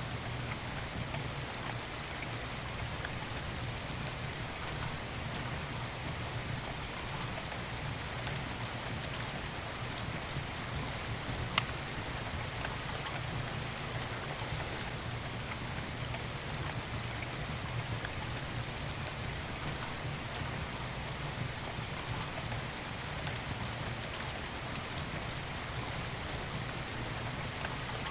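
Steady rain falling, an even hiss with no break, and a single sharp click about eleven seconds in.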